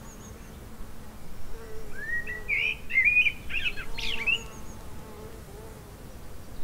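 A songbird sings a short phrase of quick rising and falling whistled notes, starting about a second and a half in and lasting a few seconds, over a faint steady buzz.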